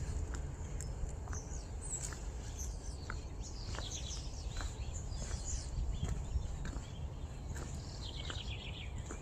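Small birds chirping and calling, with a quick trill of rapid falling notes near the end, over a steady low rumble and a few soft clicks.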